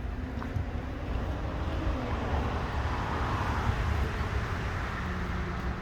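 Outdoor background noise with wind rumbling on the microphone; a broad hiss swells around the middle and fades again.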